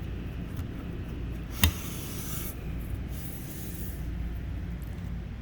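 A cloth wiping a dusty window sill: a sharp click about one and a half seconds in, then two rubbing strokes of about a second each, over a steady low hum.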